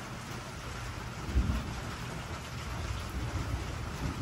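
Steady rain falling on a wooden deck, with a sudden low rumble of thunder about a second and a half in.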